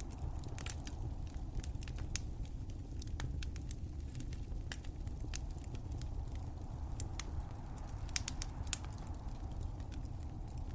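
Wood fire crackling, with frequent sharp, irregular pops and snaps over a steady low rumble.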